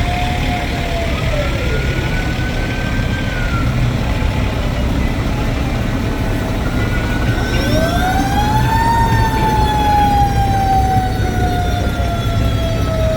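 Fire truck siren sounding two wails over a steady truck engine rumble. One wail falls away in the first two seconds. A second one winds up from about halfway through and then drops slowly in pitch.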